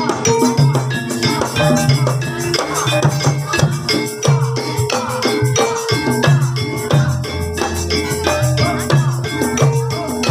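Live Javanese gamelan music accompanying an ebeg horse-trance dance: drums and struck tuned percussion playing short repeated notes over a pulsing low part in a steady rhythm.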